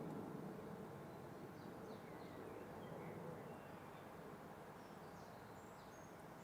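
Faint birds chirping, a scatter of short high chirps and quick whistled glides, over a steady low background rumble of outdoor noise.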